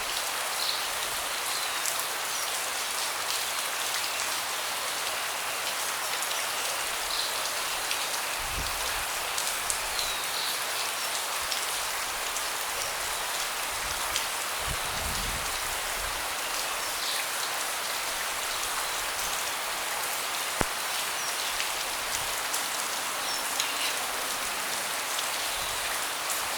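Steady rain falling on a deck, a continuous hiss with many individual drops tapping close by and a few brief low rumbles.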